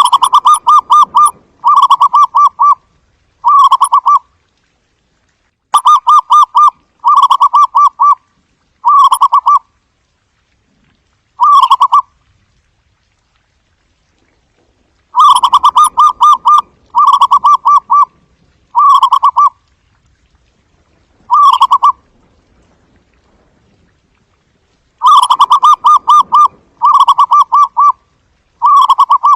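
Zebra dove giving its staccato cooing call. It comes in four bouts of three to five short coos, each coo a quick run of pulses, with silent gaps of a few seconds between bouts.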